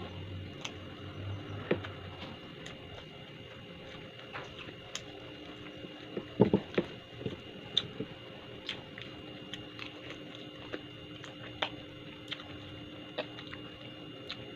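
A person eating by hand close to the microphone: chewing and mouth sounds with scattered short clicks and smacks, and a cluster of louder ones about six and a half seconds in, over a faint steady hum.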